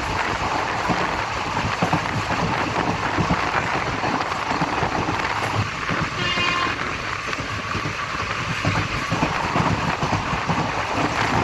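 Passenger train running: a steady rumble and rattle of the train in motion, with a short high tone about six seconds in.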